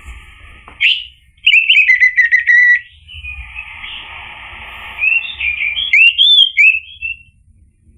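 Orange-headed thrush singing in rapid phrases of varied, quick whistled notes: a short burst about a second in, a loud phrase soon after, and another near the end, over a steady hiss.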